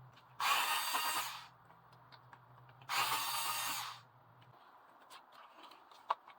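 Small electric screwdriver running in two bursts of about a second each, backing out the screws that hold a keyboard's circuit board. A few faint clicks follow near the end.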